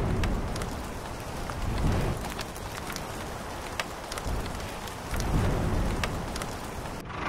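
Steady rain falling, with low rumbles of thunder that swell about two seconds in and again around five seconds in.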